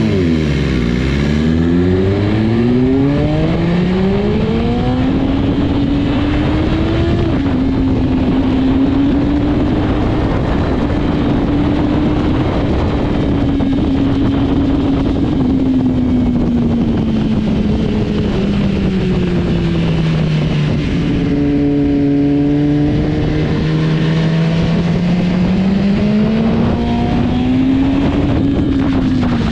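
Motorcycle engine at speed on a race track: the revs drop sharply at the start, climb over several seconds, hold, ease down, then climb again near the end, over a steady rush of wind noise.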